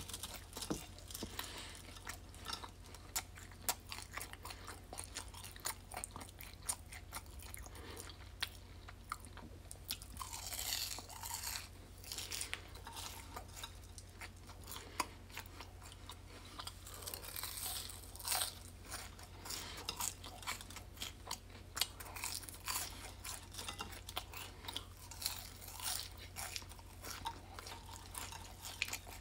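Close-miked chewing and crunching of french fries, with many small sharp mouth clicks and two longer crunchy stretches, about ten and seventeen seconds in. A steady low hum sits underneath.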